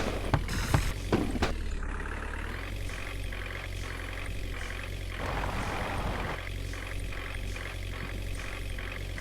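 Water tanker truck engine running steadily, with a few sharp knocks in the first second and a half.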